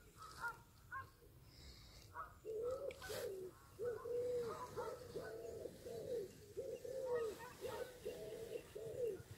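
Birds calling: a fast, unbroken run of low, clean-pitched calls sets in about two seconds in, over fainter higher chirps.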